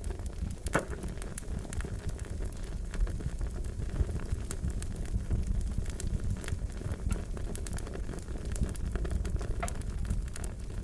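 Wood fire crackling, with a steady low rumble and frequent sharp pops, one louder pop about a second in.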